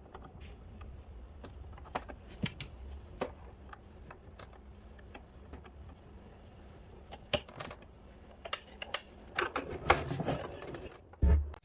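Scattered light clicks and taps of hands working on a DJ controller, with a denser clatter of clicks near the end. Electronic music with a heavy beat starts just before the end.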